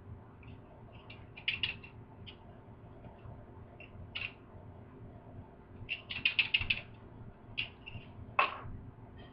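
A person chewing food with mouth smacks that come in short clusters of quick clicks. The busiest run comes about six seconds in.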